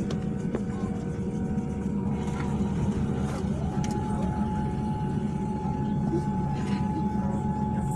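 Steady low rumble in the cabin of a Boeing 787 slowing down on the runway just after landing, its engines near idle. A thin steady tone comes in about four seconds in.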